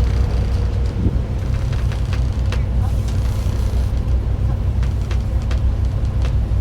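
Fishing boat's engine running steadily with a low drone, with a few scattered clicks.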